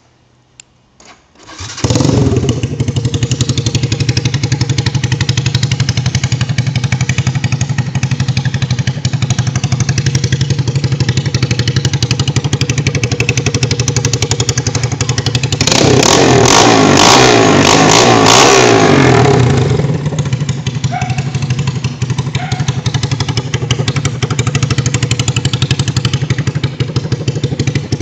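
Spartha motorcycle engine with its muffler disconnected, starting about two seconds in and then idling loudly through the open exhaust. Around the middle it is revved once for a few seconds, rising in pitch and falling back, then returns to a steady idle.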